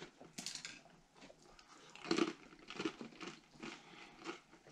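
Someone chewing a bite of a crunchy pumpkin-seed snack bar glazed with corn syrup: a string of faint, irregular crunches.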